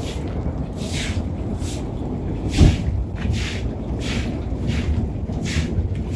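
Steady low rumble of storm wind and rain. A short swishing sound repeats about every three quarters of a second, and there is one loud thump about two and a half seconds in.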